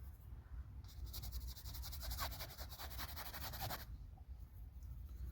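A paintbrush scrubbing on the painting surface in quick repeated strokes, starting about a second in and stopping about three seconds later, as shade is laid onto a tree.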